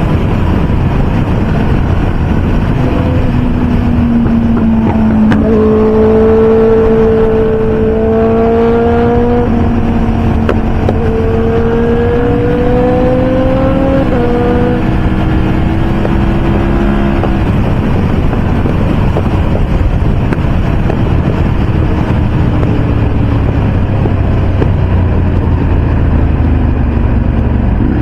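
Motorcycles riding at highway speed: steady engine drone and wind rush, with a clear engine note that rises slowly and steps up and down in pitch as the revs change for most of the first half.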